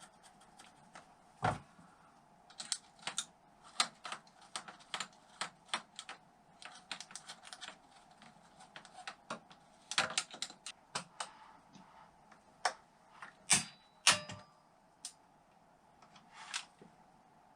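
Irregular small metallic clicks and taps of hand tools and small parts on the Honda XL600 engine while a screw is being fitted, with a few louder knocks about a second and a half in and again near the middle. A faint steady hum runs underneath.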